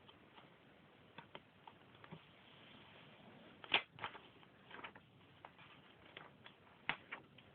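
A sheet of paper being handled and folded: faint, scattered crinkles and ticks as it is creased, with the sharpest crackles a little under four seconds in and again near seven seconds.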